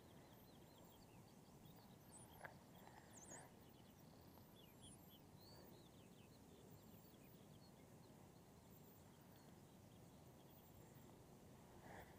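Near silence outdoors, with faint, quick high-pitched bird chirps scattered through the first half.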